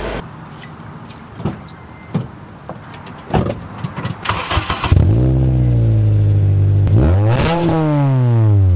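A car engine starts about five seconds in after a short burst of noise, rises and settles into a steady run. It is then revved once and drops back down. Before it starts there are only a few light taps.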